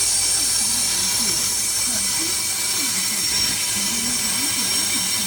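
Steady hiss, strongest in the high range, with a few faint thin whistling tones held throughout, and faint voices talking underneath.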